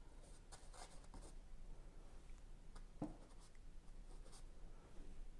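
Paintbrush stroking and dabbing oil paint on canvas: a faint run of short, scratchy strokes, one a little louder about three seconds in.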